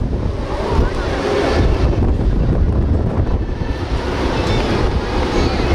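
Strong gusting wind buffeting the microphone in a loud, continuous low rumble.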